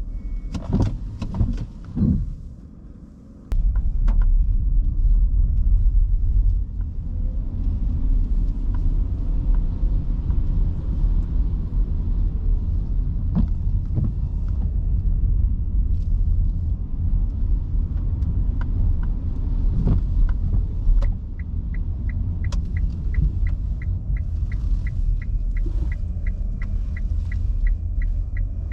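Cabin noise of an electric car driving on wet city streets in heavy rain: a steady low tyre and road rumble with a light hiss, and a few knocks near the start. From about three-quarters of the way in, a regular ticking about twice a second, typical of the turn-signal indicator.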